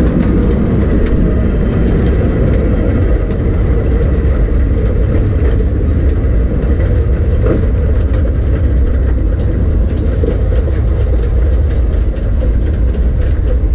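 The race car's V8 engine running at low speed, heard from inside the cockpit: a loud, steady low drone with a rapid, irregular ticking clatter over it.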